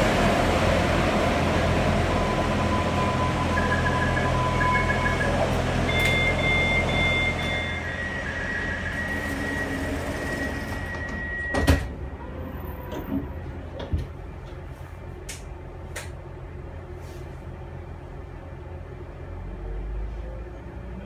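Pesa SA136 diesel railcar standing at the platform with its engine running. Its door warning beeps sound, then a long steady warning tone, and the sliding doors shut with a loud thud about twelve seconds in. After that the engine is heard quieter through the closed doors.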